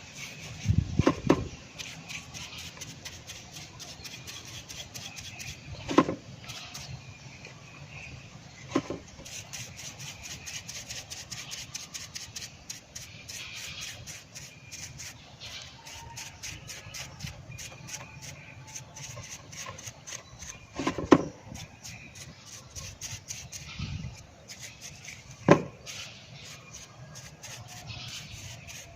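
Small carburetor parts from a rotovator's small engine being rubbed and scraped clean of dirt and rust, a steady scratchy rubbing broken by a few sharp knocks of metal parts being handled or set down.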